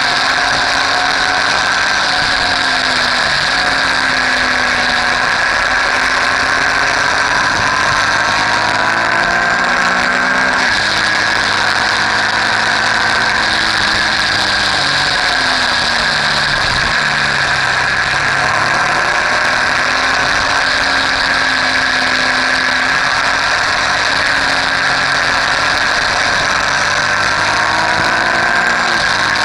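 Motorcycle engine running under way, its pitch rising and falling as the bike speeds up and slows, dropping lowest a little past halfway, over a steady rushing noise.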